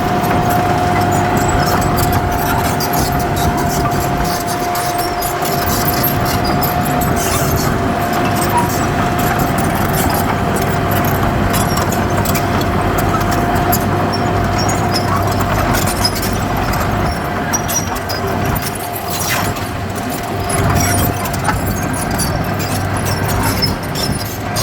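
Heavy earthmoving machinery's diesel engine running steadily, with a steady high whine over it that stops about 21 seconds in.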